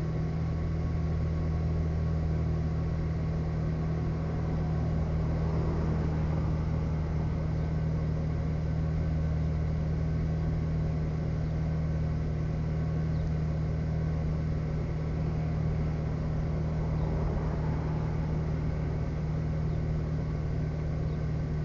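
Acura RSX's Honda K-series 2.0 L four-cylinder engine running steadily, held at a slightly raised speed while it warms up toward operating temperature.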